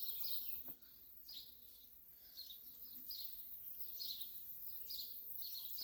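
Small birds chirping, short calls repeating about once a second, over a faint steady hiss.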